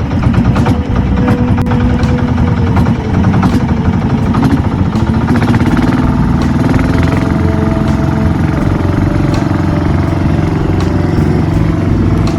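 Boat engine running steadily at constant speed under way.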